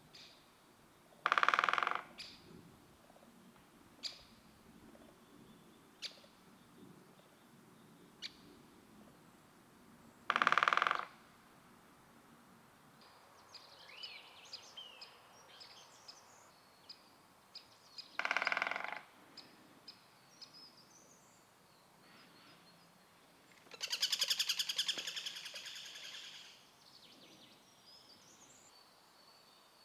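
Female great spotted woodpecker drumming: three short drum rolls, each under a second and about eight seconds apart, with a few single taps between them. Small bird calls come in the middle, and near the end there is a longer, fading rapid rattle lasting about two and a half seconds.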